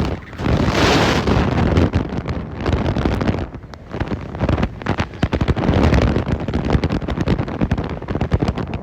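Wind buffeting a GoPro microphone on a sled towed fast behind a truck over snow, with the rough scrape and rattle of the sled: many quick knocks and a strong rush about a second in.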